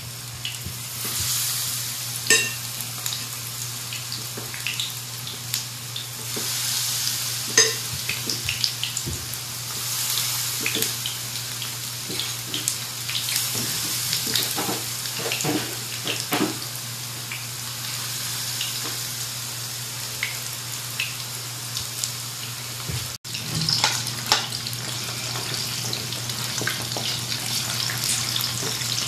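Batter-coated chicken strips shallow-frying in oil over a low flame: a steady sizzle with many crackles and pops. Near the end a spoon stirs the pieces in the pan.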